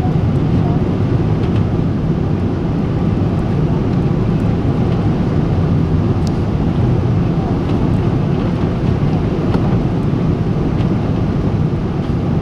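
Boeing 777-300 airliner cabin noise: a steady low rumble of engines and airflow heard from inside the cabin, with a few faint ticks.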